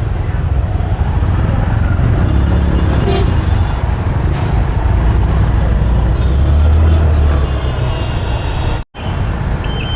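Road traffic heard while riding a motorbike: a steady, loud low rumble with faint horn toots in the mix. The sound cuts out for a split second near the end.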